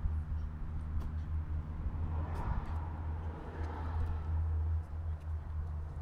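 Harley-Davidson V-Rod Night Rod Special's V-twin idling steadily through an aftermarket Remus exhaust, a low even rumble. A hiss swells and fades in the middle.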